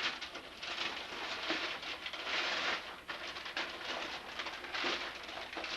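Paper rustling and crinkling in uneven bursts as a gift's wrapping and card are handled.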